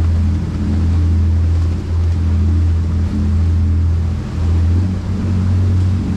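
A boat's motor running with a steady low drone, over the wash of water in rough seas; the loudness dips briefly several times.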